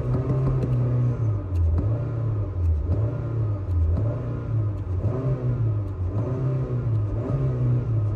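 Honda car engine revved by repeated pumping of the accelerator pedal, heard from inside the cabin, its pitch rising and falling about once a second.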